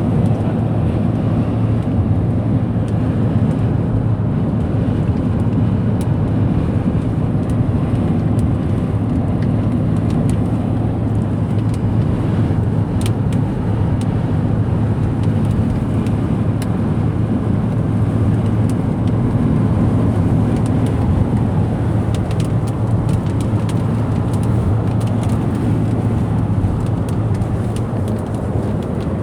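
Steady road and engine noise inside a moving car's cabin, with a constant low hum and faint scattered ticks.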